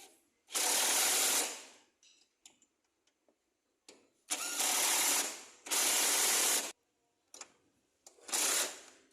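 Power tool run in four short bursts of about a second each, starting and stopping sharply with quiet gaps between.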